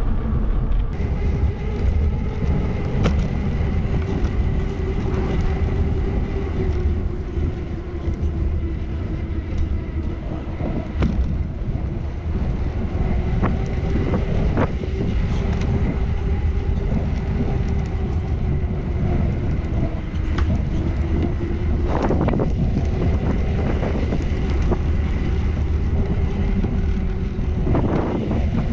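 Wind buffeting the microphone over the low rumble of a bicycle rolling along a street, with a steady, slightly wavering hum and scattered clicks and rattles. The noise swells briefly twice near the end.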